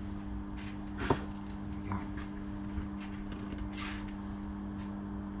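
Garage work sounds over a steady low hum: a sharp metallic knock about a second in, a few lighter clicks, and several short hissing bursts.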